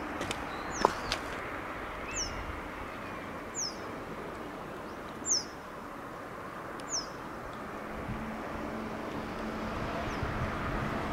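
A bird gives a short, high, falling call five times, about every second and a half, over steady outdoor hiss. A low, steady hum comes in about eight seconds in.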